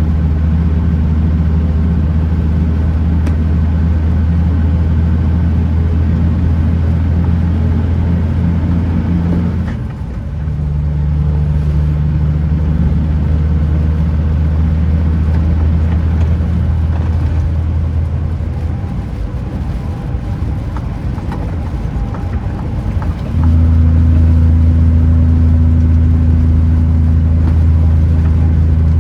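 Kenworth T909 truck's diesel engine running with a steady low drone. It eases off about ten seconds in and comes back louder near the end.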